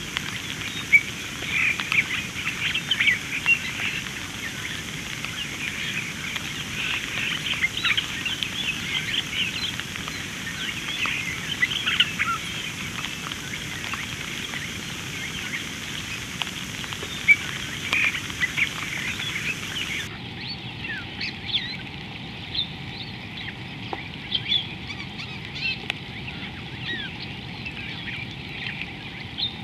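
Outdoor animal chorus of many short chirps and calls, dense in the first twenty seconds and sparser after, over a steady high hiss. About twenty seconds in, the high hiss stops abruptly.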